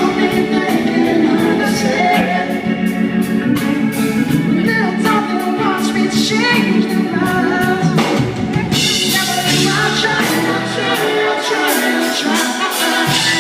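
Live band playing a slow pop-soul ballad: a sung vocal line with sliding runs over drums with cymbal strokes and keyboards.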